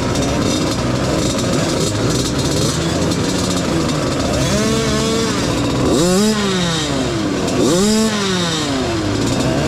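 Small dirt bike engines idling together, with one revved up and back down three times in the second half.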